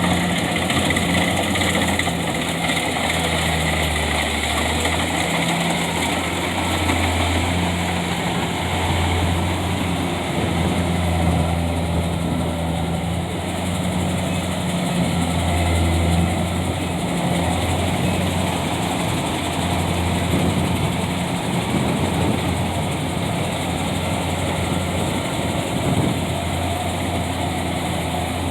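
Tractor engine running steadily at a low idle-like speed, its pitch wavering slightly up and down as the revs shift.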